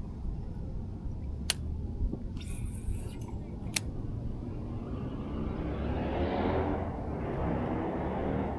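Wind rumbling on the microphone, with two sharp clicks a couple of seconds apart and a short hiss between them, then a rushing noise that swells for about three seconds near the end.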